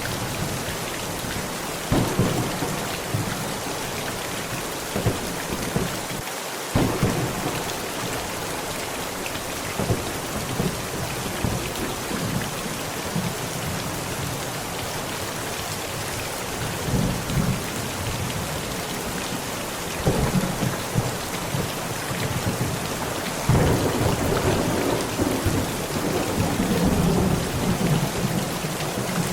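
Heavy, steady rain pounding down through a thunderstorm. Sharp thunder cracks come about 2 s, 7 s and 20 s in, and a long rolling rumble of thunder builds from about 23 s in and runs on almost to the end.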